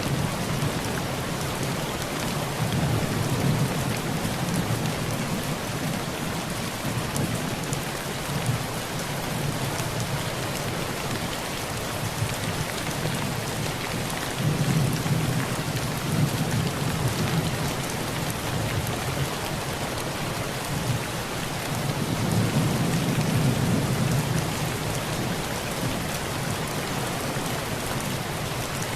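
Heavy rain falling steadily on a tin roof, a dense even hiss. Low rolls of thunder swell up three times: a few seconds in, about halfway, and about three quarters through.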